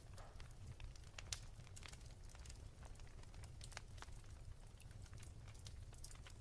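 Wood fire crackling softly: irregular small pops and snaps over a low rumble, one pop about a second in a little louder than the rest.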